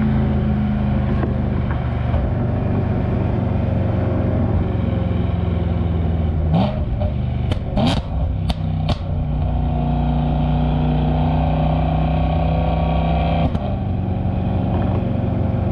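BMW E92 M3's V8 engine running steadily as the car is driven. A few sharp clicks or pops come a little past halfway, with one more near the end.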